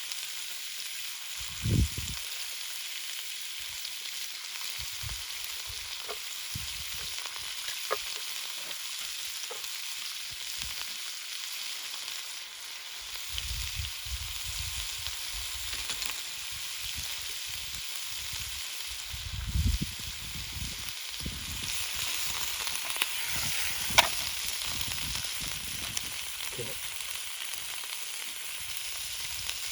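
Food sizzling as it fries in a pot over a campfire: a steady hiss with scattered sharp clicks, the loudest about 24 seconds in, and a few low thumps.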